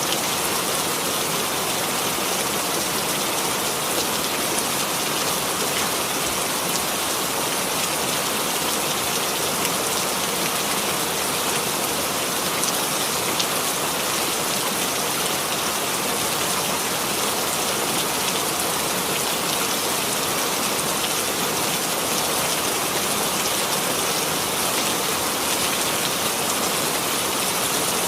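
Steady rainfall, an even hiss of rain falling on a surface with no pauses or changes.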